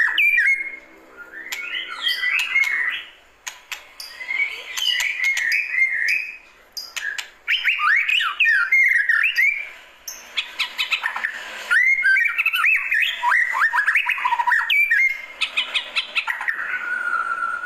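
White-rumped shama singing: a run of phrases of quick rising and falling whistled notes mixed with sharp clicks, each phrase a second or two long with short pauses between them.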